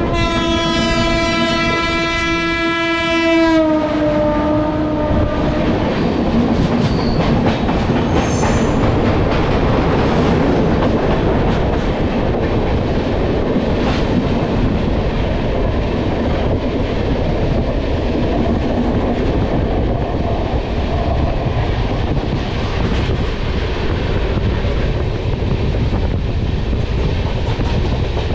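Locomotive horn of a passing express train, held and then dropping in pitch as it goes by, about three to five seconds in. After it comes the steady rush and wheel clatter of the two trains running side by side, heard from an open coach door.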